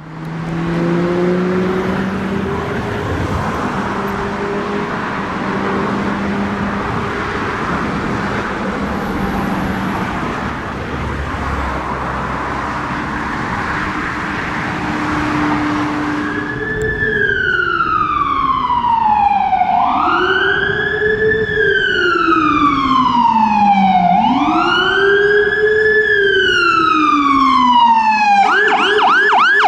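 Street traffic noise, then a fire engine's siren starts about halfway through, sweeping slowly down and up in a wail. Near the end it switches to a fast yelp.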